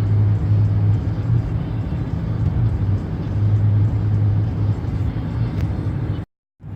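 Steady low engine and road rumble, as heard inside a moving car, with a short dead gap near the end.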